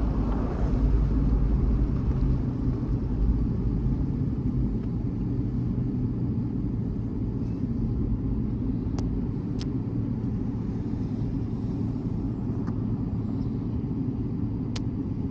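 Steady low rumble of a vehicle's engine and tyres heard from inside the cab while driving, with a few faint sharp clicks near the middle and end.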